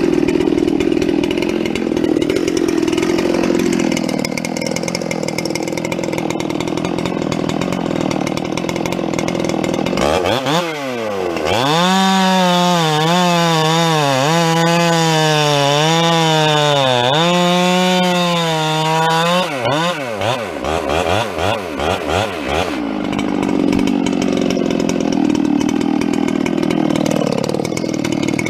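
Two-stroke chainsaw cutting through a firewood log under load. About ten seconds in it comes out of the cut and revs high and freely, its pitch wavering up and down. Around twenty seconds the throttle stutters and drops, and then the saw bogs back into the wood for a steady loaded cut.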